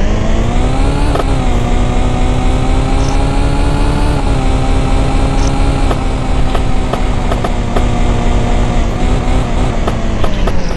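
Small two-stroke moped engine running at high, fairly steady revs while being ridden. It picks up about a second in and then slowly eases off, with a few sharp clicks or knocks in the second half.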